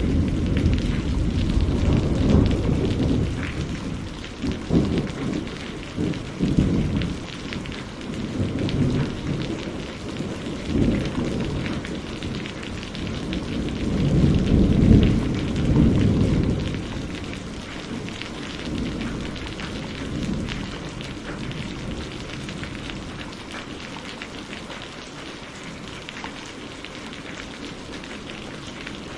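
Thunderstorm: steady heavy rain with long rolling thunder, strongest in the first half and peaking in the middle, then dying away to rain alone near the end.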